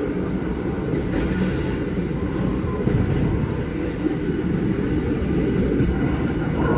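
Steady rumble of a moving passenger train heard from inside the carriage, its wheels running on the rails. A brief faint high squeal comes about a second in.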